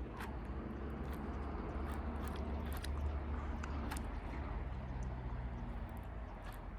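Fishing reel being cranked to retrieve a big swimbait: a faint steady gear hum with scattered small clicks over a low rumble.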